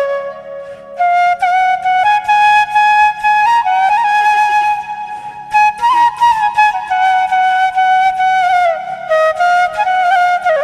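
Background music: a flute playing a slow melody of long held notes with small bends, over a soft low drone.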